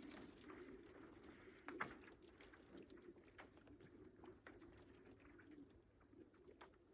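Faint low hum of thawing lake ice on Lake Päijänne, steady and slightly wavering, with scattered sharp ticks and small cracks, the loudest about two seconds in: the ice sheet breaking up in spring.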